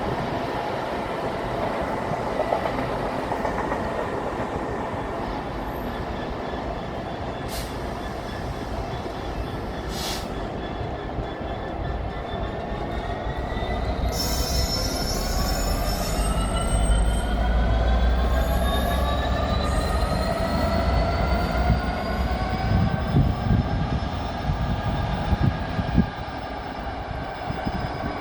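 A train moving through a railway station, with wheel squeal and a whine that rises in pitch through the second half, over a heavy low rumble in the middle.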